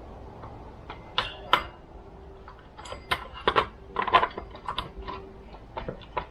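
Irregular clicks, clinks and knocks of small metal parts and hand tools being handled during chainsaw reassembly, loudest in a cluster through the middle.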